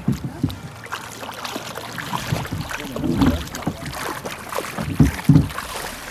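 River water rushing and splashing around a drift boat, a rough hiss full of small splashes, with several dull heavy thumps, the loudest about five seconds in.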